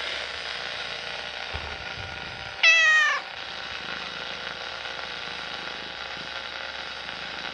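Domestic cat meowing once, a short call that falls in pitch about two and a half seconds in, over a steady hiss.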